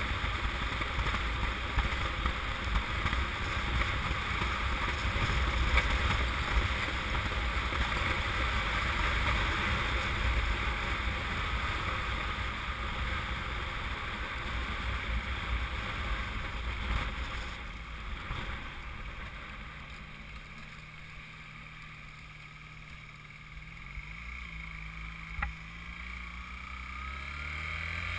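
Wind and road noise on a moving Honda CM200T motorcycle with its small parallel-twin engine underneath, easing off about two-thirds of the way through as the bike slows. The engine then runs at a steady low idle, dipping in pitch briefly twice, with a single click near the end.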